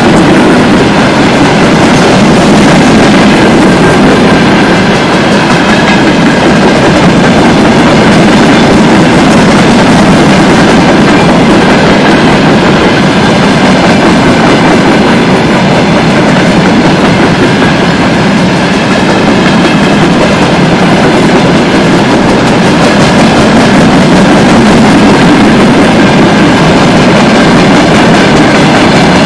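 Freight train of open-top gondola wagons rolling past at close range: a loud, steady rumble of steel wheels on the rails.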